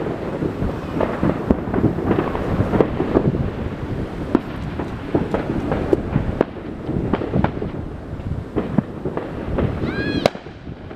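Consumer fireworks and firecrackers going off around the neighbourhood in a steady barrage of bangs and crackles. Just after ten seconds a brief high whistle sounds as an aerial shell bursts, and the barrage then eases off.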